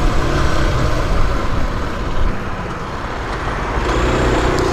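Mondial SMX 125i supermoto's single-cylinder 125 cc engine running steadily while riding along a city street, heard together with wind and road noise on the bike-mounted microphone.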